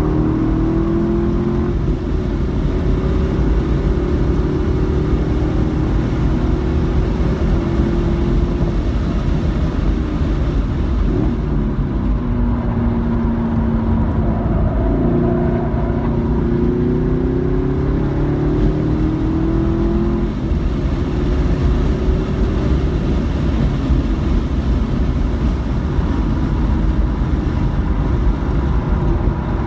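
Car engine heard from inside the cabin while lapping a race track at about 60–65 mph, over heavy road and wind noise. The engine's pitch rises and falls with the throttle through the corners, most noticeably midway through.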